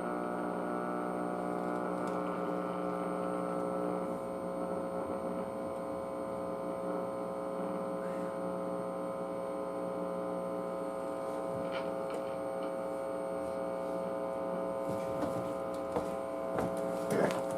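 Steady electrical mains hum with a buzzy edge from a powered-up 1959 Zenith television chassis that is loading its power supply down. A few faint ticks come near the end.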